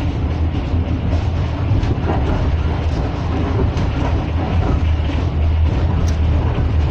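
Train running along the track, heard from inside the carriage: a steady, loud low rumble of wheels on rails, with a few faint clicks.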